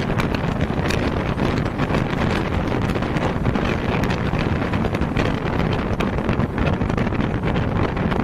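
Heavy wind buffeting the microphone over the steady running noise of an express train passing through a station at speed.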